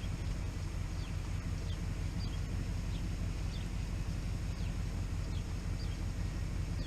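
A small bird repeating a short falling chirp over and over, over a steady low outdoor rumble.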